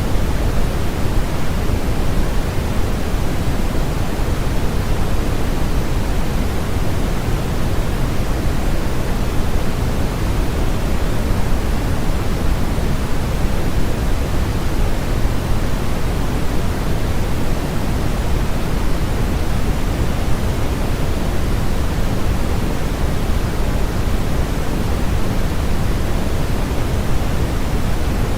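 Steady generated noise track sold as white noise, an even, unbroken hiss that never changes. It is fuller in the bass than in the treble.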